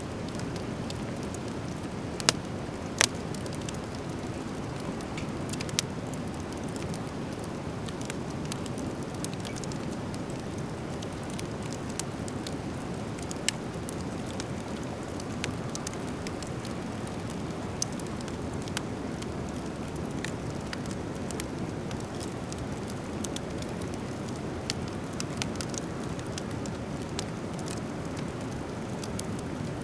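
Driftwood fire burning, crackling with sharp pops scattered irregularly throughout over a steady low rushing.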